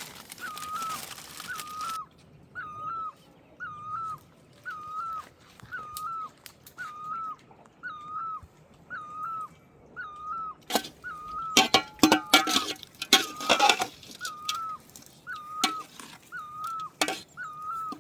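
A bird repeating one short whistled call over and over, about once every second. Partway through comes a burst of clattering and rustling.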